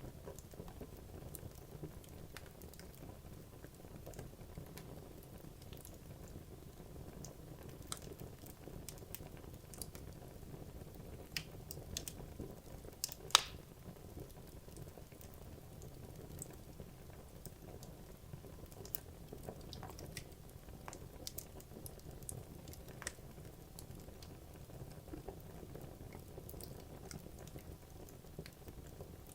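Wood logs burning in a fireplace: a steady low rumble of flame with scattered crackles and pops, one sharp pop about halfway through standing out as the loudest.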